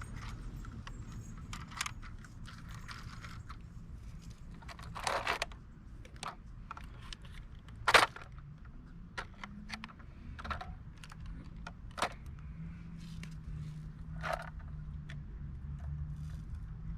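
Scattered clicks, taps and short scrapes of small hard parts as die-cast model garbage trucks are handled, the sharpest click about eight seconds in. A low steady hum comes in past the middle.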